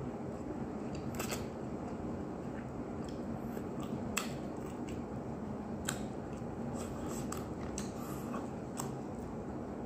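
A person chewing crispy fried chicken, with about five sharp, short mouth clicks scattered over a steady low hum.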